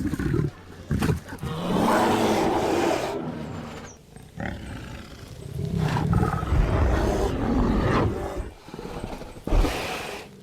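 A large wild animal calling: a series of deep calls, the two longest lasting about two seconds each, with shorter calls between.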